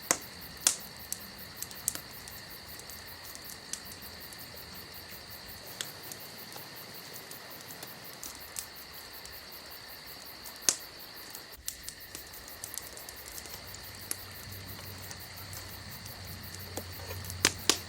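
Insects chirping steadily, a shrill high trill, with scattered sharp pops or clicks over it, the loudest about a second in, near the middle and near the end. A faint low hum comes in during the second half.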